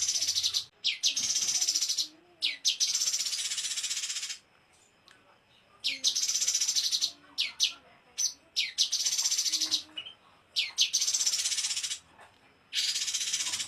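Small songbird singing fast 'tembakan' phrases, repeated about every two seconds. Each opens with one or two quick sweeping notes and runs into a dense, very high trill that lasts up to about a second and a half.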